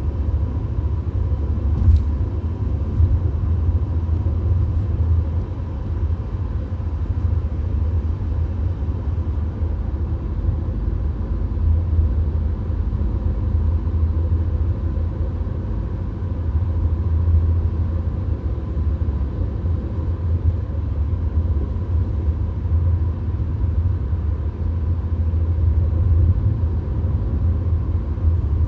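VW Golf driving on the highway: a steady low rumble of road and engine noise, with a brief faint click about two seconds in.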